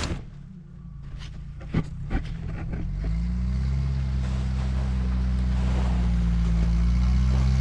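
A few light knocks, then about three seconds in the tracked recovery rig's engine throttles up and runs steadily with a deep, even drone as it works to pull.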